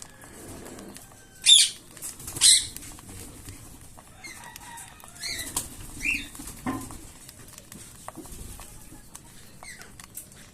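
Young cockatiels calling and fluttering their wings: two loud, harsh high screeches about a second apart, followed by a string of shorter chirps that slide up and down in pitch.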